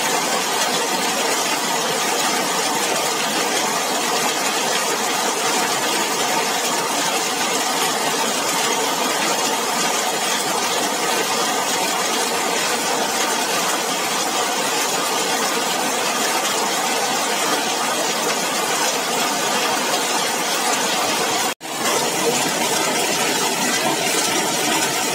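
Heavy rain falling steadily, drumming on a zinc sheet roof and splashing on wet pavement. The sound drops out for a split second near the end.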